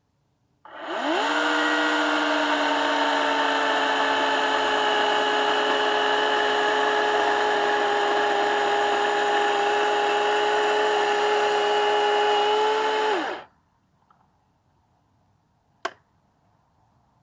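Electric power tool motor spinning up quickly, running at a steady speed for about twelve seconds, then winding down and stopping. A single sharp click follows a couple of seconds later.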